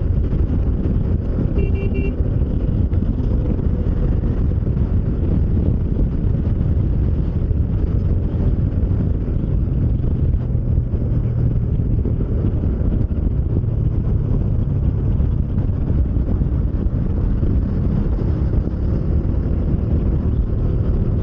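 Motorcycle riding at highway speed as heard from a helmet-mounted microphone: a steady, loud rush of wind on the mic mixed with engine and tyre rumble.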